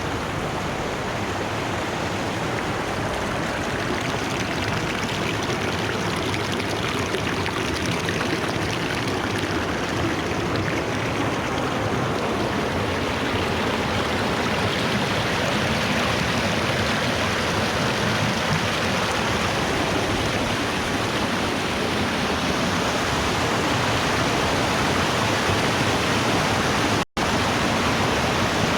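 Steady rushing of the Putna waterfall, water pouring continuously over the rocks, growing slightly louder. The sound drops out for an instant near the end.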